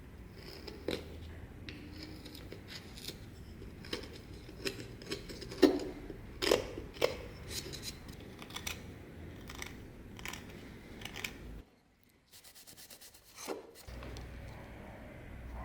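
Hand work on old wood and metal parts: rubbing and scraping with scattered clicks and knocks. It breaks off abruptly about twelve seconds in and comes back a couple of seconds later with a different low hum.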